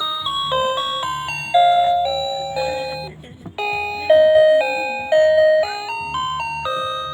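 Electronic bell-like tones playing a slow, wandering melody, each note struck and fading, over a low steady drone. The notes drop out briefly a little past three seconds in.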